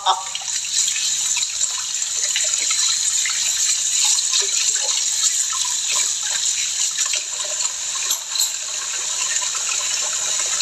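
Tap water running steadily into a sink, with small scattered clinks.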